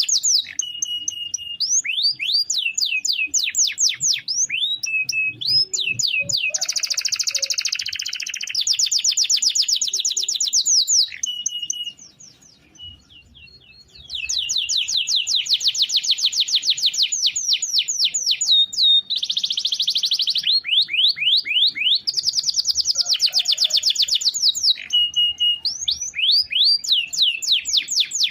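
Domestic canary singing a long rolling song: rapid trills of repeated sweeping high notes, changing from one trill to the next, with a short break about halfway through.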